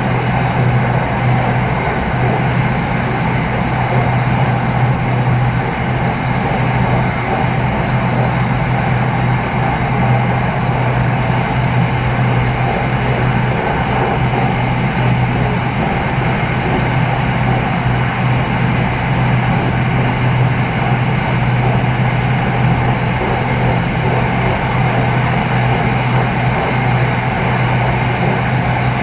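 SRT Red Line electric commuter train running at steady speed between stations, heard from inside the carriage: continuous rolling and running noise with a steady low hum.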